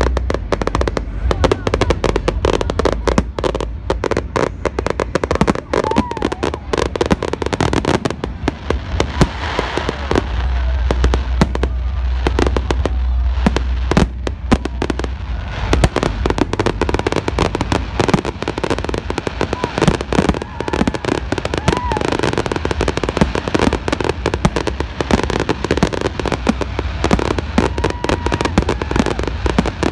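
A fireworks display going off, with a rapid, continuous barrage of bangs and crackles.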